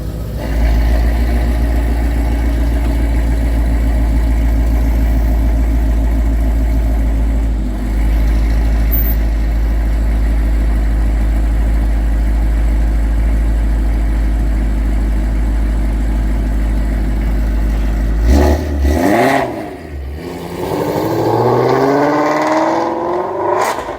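Shelby GT350's 5.2-litre Voodoo flat-plane-crank V8 through Kooks headers and exhaust, running steadily for about eighteen seconds. Then a quick rev up and down, followed by hard acceleration with the pitch climbing several times.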